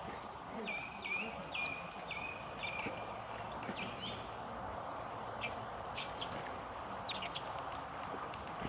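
Common starling calling: a quick run of short whistled notes in the first three seconds, then scattered sharp, high chirps over a steady background hiss.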